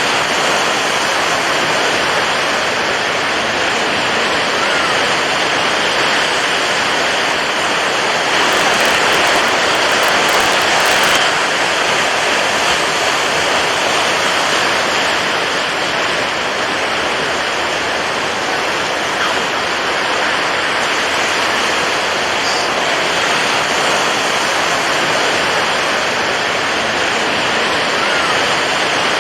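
Steady rushing water, the water-waves sound of a sleep track, a continuous even wash that swells slightly about nine seconds in.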